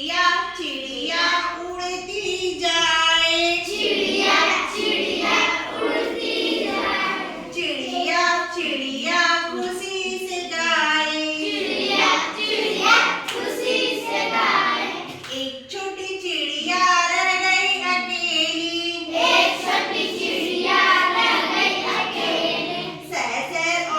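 A group of children singing a Hindi counting rhyme together in chorus, in continuous high-pitched sung phrases.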